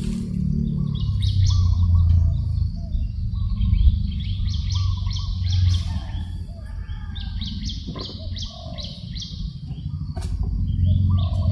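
Birds chirping in quick runs of short, high, falling notes, with some lower calls mixed in, over a steady low rumble.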